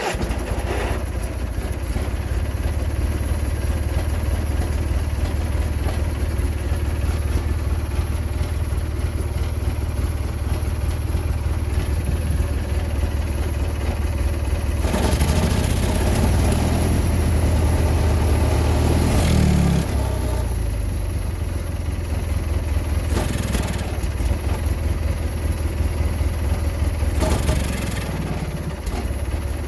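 Husqvarna GT garden tractor's twin-cylinder engine running after a restart. About halfway it gets louder for a few seconds, as if throttled up, then settles back. It won't rev up properly, which the owner puts down to a little dirty gas.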